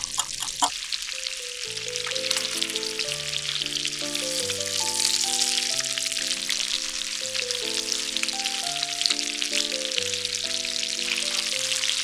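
Salmon rolls frying in melted butter in a pan: a steady, dense crackling sizzle, with light background music.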